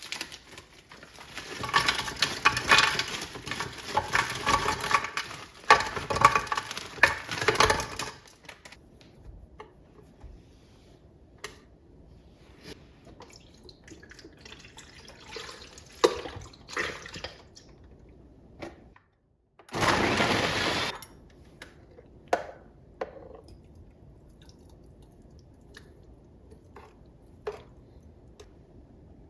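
Running water, a loud rushing stretch of several seconds that stops, then a second brief rush of water later; small clicks and knocks in between.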